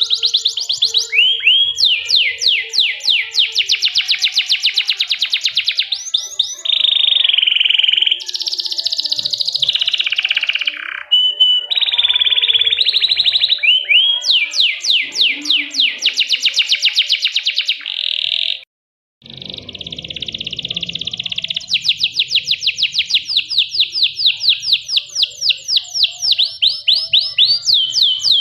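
Domestic canary singing a long, loud song of rapid rolling trills and repeated chirping notes, changing from one trill to the next every second or two. The song breaks off into a moment of silence about two-thirds through, then carries on with a faint low rumble behind it.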